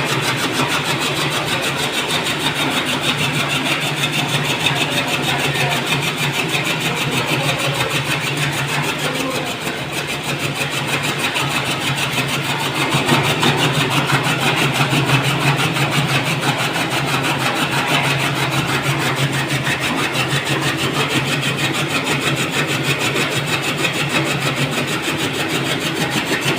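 Motor-driven chaff cutter running, a steady low hum under a dense, rapid mechanical clatter, a little louder for a few seconds past the middle.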